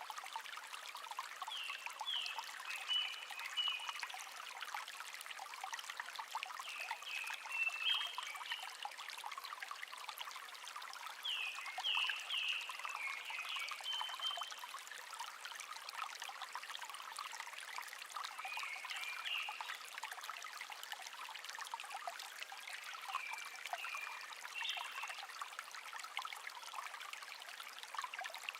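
A small stream trickling and babbling steadily, with a songbird singing short phrases of a few quick notes, about five phrases a few seconds apart.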